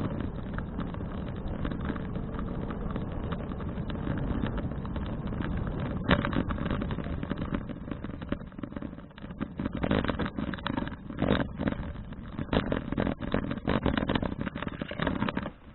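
Riding noise on a bicycle-mounted action camera: steady wind rush and rattling, with many sharp knocks over bumps from about six seconds in, cutting off suddenly at the end.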